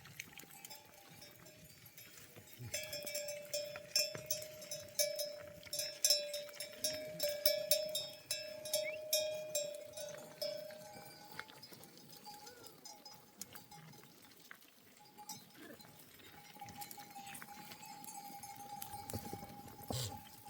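Bells hung on a grazing flock of sheep clanking irregularly as the animals move. The clanking is busiest in the first half and thins out to scattered clinks after that.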